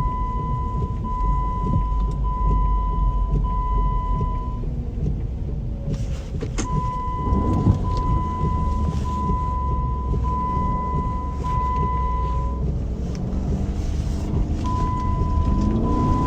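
A 2009 Jeep Commander's 5.7 Hemi V8 and its tyres rumble low and steady while it drives through deep snow in four-wheel-drive low, heard from inside the cabin. Over it an electronic warning tone beeps repeatedly, each beep about a second long, stopping twice for a couple of seconds. A few sharp clicks come about halfway through.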